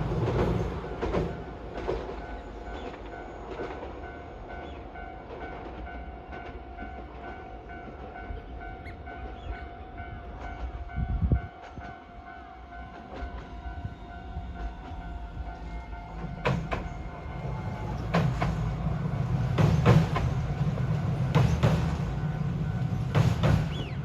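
A train running past, with a low rumble and wheels clacking over rail joints every second and a half or so, growing louder in the second half. Earlier there is a quieter stretch carrying a thin steady whine.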